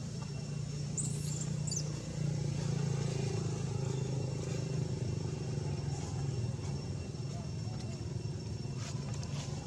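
Steady low engine hum, like a motor running nearby, with a couple of brief high squeaks about a second in.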